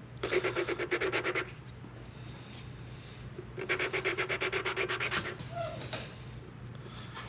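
A valve being hand-lapped into its seat in a Gen II small-block Chevy cylinder head: spun rapidly back and forth with lapping compound, it makes a gritty rhythmic rubbing, about nine strokes a second, in two bursts of roughly a second and a half each.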